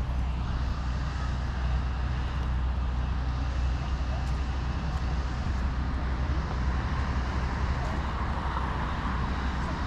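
Steady low rumble of road traffic, with a slight swell near the end.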